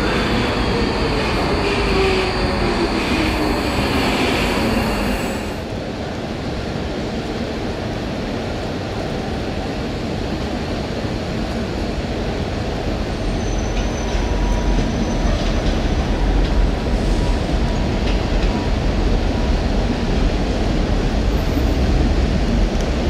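Docklands Light Railway train slowing into a station, its electric whine falling in pitch, cut off suddenly about five seconds in. Then a second DLR train approaching along the track, its rumble growing louder from about halfway through.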